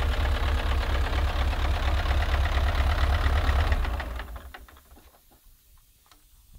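Hino EF750 V8 diesel engine idling with an even firing rhythm, then shut off about four seconds in and quickly running down to a stop, leaving a few faint clicks.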